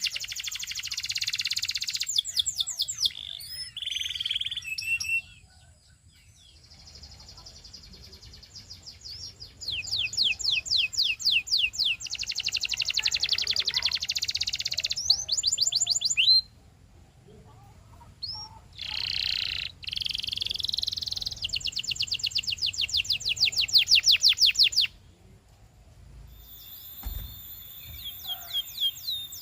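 Canary singing: long, rapid trills of quickly repeated high notes, broken by a few short pauses.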